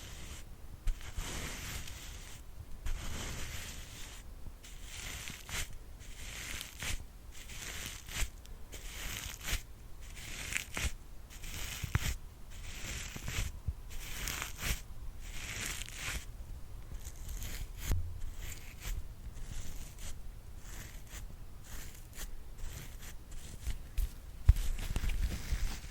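Brush strokes for ASMR: a steady run of dry, scratchy swishes about once a second, with short gaps between them. A few low bumps of handling come in, the loudest near the end.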